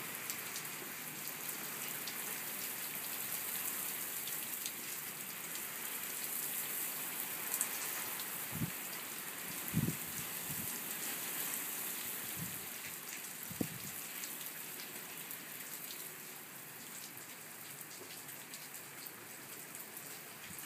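Steady rain falling on a wet tiled rooftop terrace: a dense, even hiss of drops. A few short dull thumps come around the middle, and the rain is a little quieter over the last few seconds.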